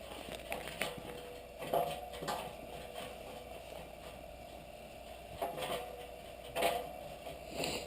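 Washing machine drum turning with a faint steady motor hum, and irregular knocks, about seven of them, as objects tumble against the drum.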